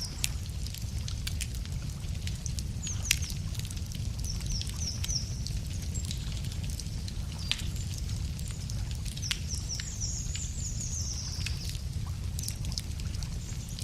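Campfire wood crackling with scattered sharp pops, one louder pop about three seconds in, over a steady low rumble. A songbird sings two runs of short, high chirping notes, in the first half and again near the end.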